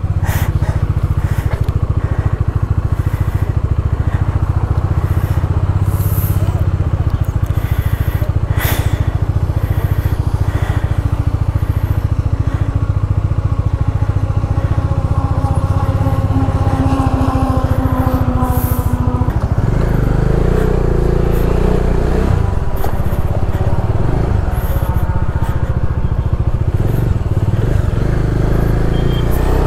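Bajaj Dominar 400's single-cylinder engine idling steadily, with a few knocks and clatters in the first part. About twenty seconds in, the sound changes as the bike pulls away and rides off.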